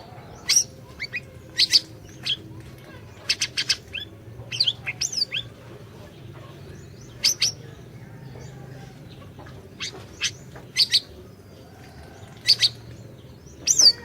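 Siri-siri songbird calling: sharp, high chirps and short down-slurred whistles in irregular clusters, often two or three notes in quick succession, with pauses of a second or more between them. A faint steady low hum lies underneath.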